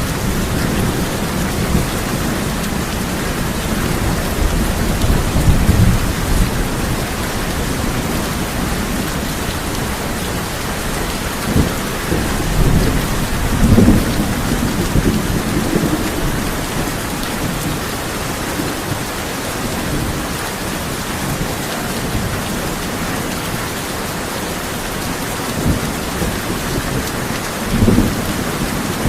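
Steady heavy rain on a tin roof, with thunder rumbling low several times: about five seconds in, a longer roll in the middle, and again near the end.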